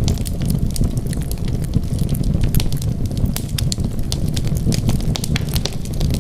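Wood fire burning: irregular sharp crackles and pops over a steady low rumble of flames.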